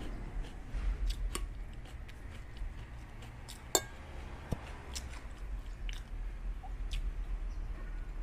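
A person chewing a mouthful of food close to the microphone, with wet mouth sounds and a few short sharp clicks, the sharpest about halfway through.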